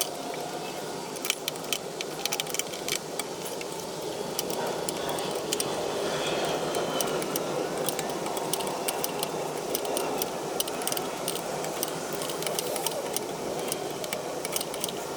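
Metal clinking and rattling of tools and loose parts during hands-on car disassembly: many sharp, irregular clicks over a steady background hiss.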